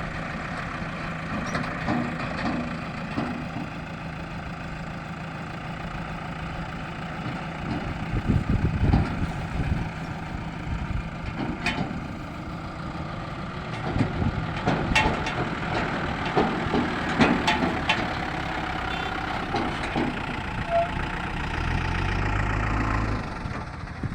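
Diesel engine of a JCB 3DX backhoe loader running while it loads mud. The engine gets louder in two stretches, about a third of the way in and again past the middle, with scattered knocks and clanks, and settles back to a steady run between.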